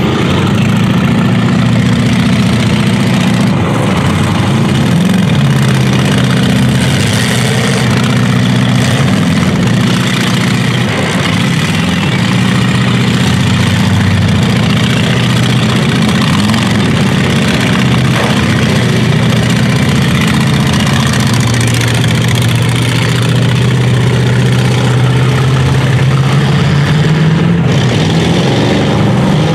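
Engines of several full-size demolition derby cars running loud and revving, their pitch rising and falling as the cars drive and push against each other on the dirt.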